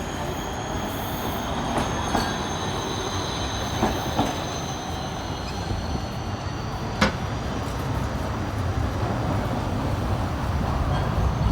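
Electron low-floor electric tram running on its rails: a low rumble under a high whine that rises slightly in pitch. A few sharp clicks come from the wheels, the sharpest about seven seconds in.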